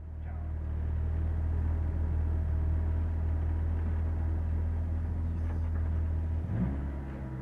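Peugeot 206 rally car's engine idling steadily, heard from inside the stripped cabin with a deep, even hum; near the end its note becomes unsteady.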